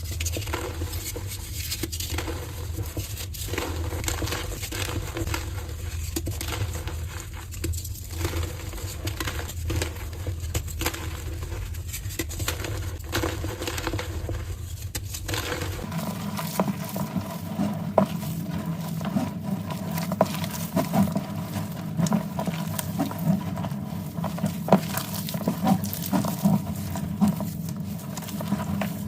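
Soft dyed gym chalk being crushed and crumbling, a dense crackly patter of many small crunches. The sound changes abruptly about sixteen seconds in, as a new piece is crushed.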